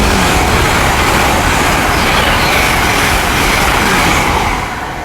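GWR Class 800 Intercity Express Train passing through the station at speed: a loud rush of wheel and air noise that fades about four and a half seconds in.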